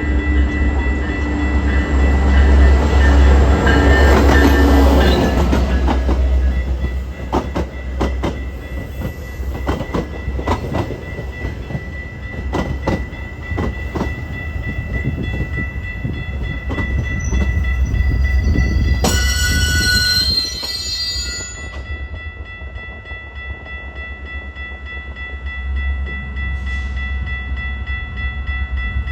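A train rolling past with a heavy low rumble, its wheels clicking rhythmically over rail joints. About two thirds of the way through there is a brief high-pitched squeal or screech lasting about a second and a half.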